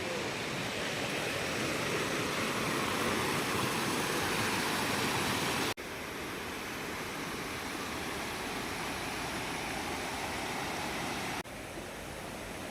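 Steady rushing of falling water from a waterfall, heard as three shots joined by two abrupt cuts.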